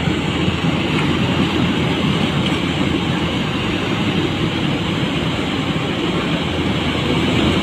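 A river in flood carrying a cold lahar, a volcanic mudflow, rushing past in a loud, steady, deep rumble of churning water.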